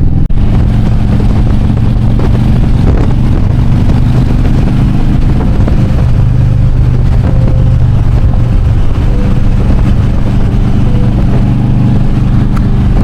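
Harley-Davidson Road King's V-twin engine running steadily at road speed, with a haze of wind noise over it.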